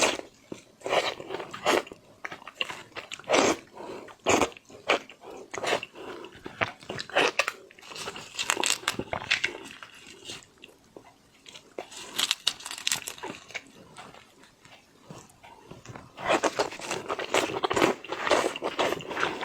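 Close-miked mouth sounds of eating large shrimp: irregular bites, chewing and wet smacks, growing denser in the last few seconds.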